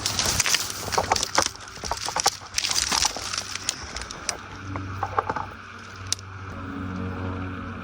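Dry leaves and twigs crunching and crackling in irregular snaps. From about six and a half seconds in, a steady low hum of bees buzzing around their hive in a log rises up beneath it.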